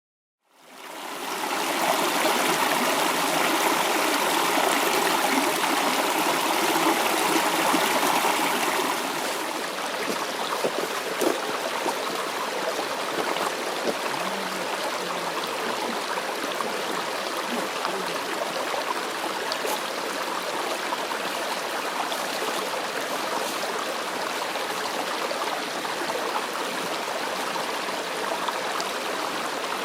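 Mountain stream flowing, a steady rush of running water that fades in at the start, is a little louder for the first nine seconds or so, then runs on slightly quieter.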